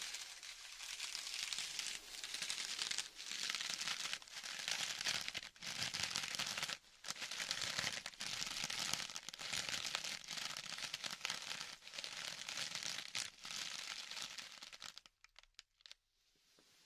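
Crinkling of some crinkly material handled in repeated strokes a second or two long, as an ASMR trigger. It stops about fifteen seconds in, leaving a few faint clicks.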